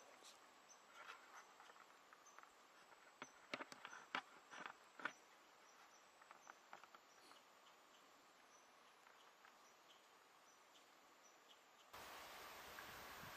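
Near silence: quiet outdoor ambience, with a faint high chirp repeating steadily and a handful of faint clicks and knocks a few seconds in. About twelve seconds in, it cuts to a louder steady hiss.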